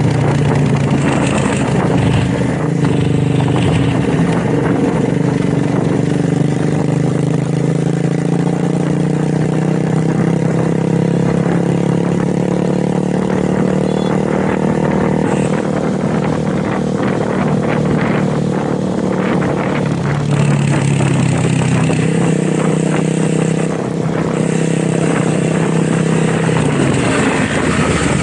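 Motorcycle engine and exhaust running steadily under way, the pitch drifting gently up and down with no sharp revs.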